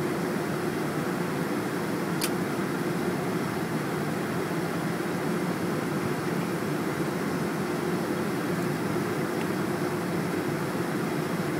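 Steady, even rush of noise from a Boeing 747-400ER airliner, with a constant low hum and no rise or fall in level. There is a single brief click about two seconds in.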